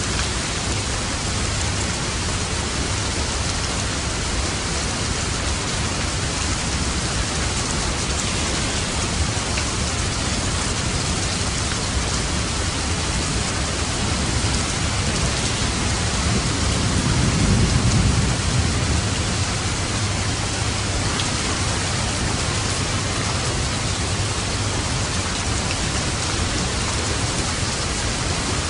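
Steady rain falling. About two-thirds of the way through, a low rumble of thunder swells and fades.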